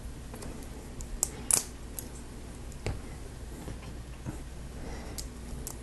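Lego Technic plastic pieces clicking and snapping together by hand: scattered small clicks, the loudest few about one and a half seconds in.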